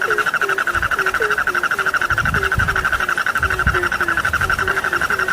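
Frogs calling in chorus: a dense, fast trill over deeper short croaks that repeat about three times a second, with a few low rumbles in the middle.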